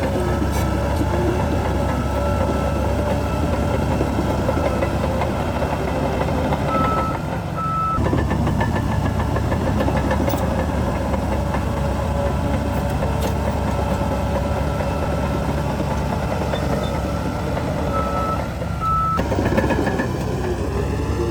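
Heavy diesel earthmoving machinery running steadily with a deep rumble. A reversing alarm gives two short high beeps about a third of the way in, and two more near the end.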